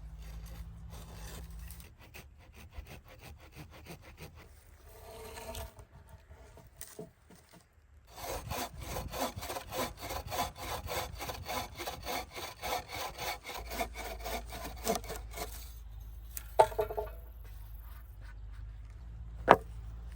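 Hand saw cutting through wood in a run of steady back-and-forth strokes lasting several seconds, followed by two sharp wooden knocks near the end.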